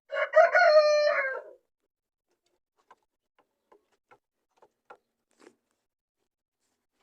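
A rooster crows once, a loud call of about a second and a half that holds its pitch and then falls slightly at the end. A few faint short sounds follow at about half-second intervals.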